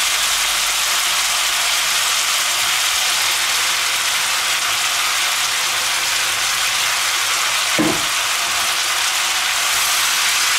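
Zucchini and bell pepper slices sizzling steadily in hot oil in a wok, as chopped onion and garlic are added and stirred in. A single brief thud about eight seconds in.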